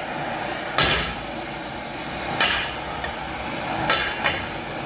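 A hammer striking metal in four sharp blows, the first three about a second and a half apart, each ringing briefly.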